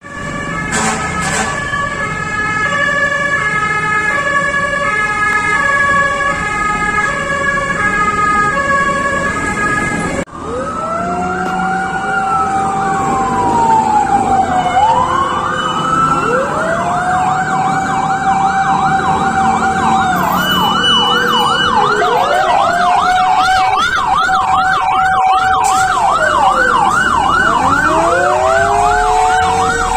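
Several fire-truck sirens sounding together. For the first ten seconds a stepped, alternating-tone siren runs over a steady high tone. After a break about ten seconds in, overlapping wailing sirens rise and fall slowly, joined partway through by a fast yelp.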